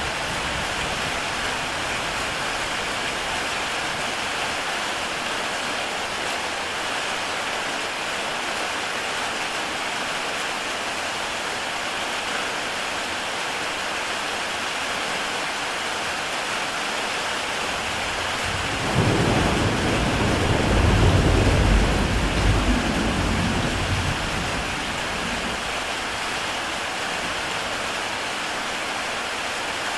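Heavy rain pattering steadily on a tile roof. About two-thirds of the way through, a low rumble of thunder swells for several seconds and then fades.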